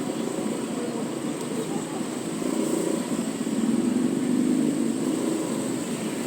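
Motor scooter engine running at riding speed, its note swelling and easing slightly with the throttle, with street traffic around it.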